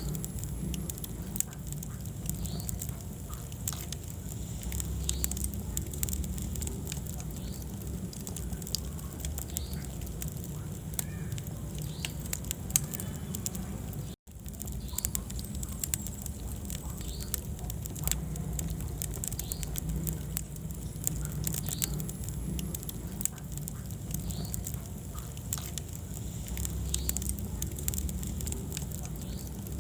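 Wood fire burning in a fireplace: irregular sharp crackles and pops over a steady low rumble of the flames, with a brief gap in the sound about halfway through.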